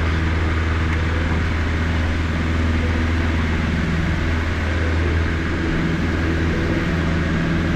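Cessna 152's four-cylinder Lycoming O-235 engine running steadily at full takeoff power through liftoff and the initial climb.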